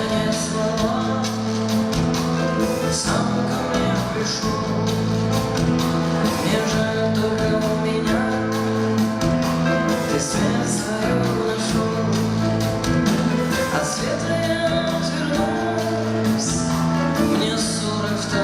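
Live band music with a steady beat and a bass line moving under sustained chords.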